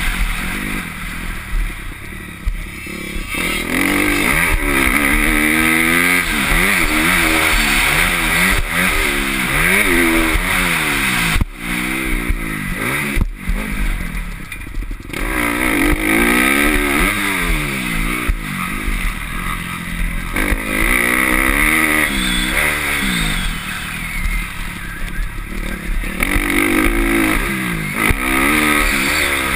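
Motocross dirt bike engine revving hard and easing off over and over, its pitch climbing and dropping every second or two as it runs through the gears. About halfway through, the sound breaks off sharply twice.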